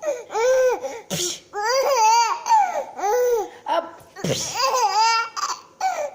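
Baby laughing in a string of short, high-pitched peals, with two quick breathy bursts in between.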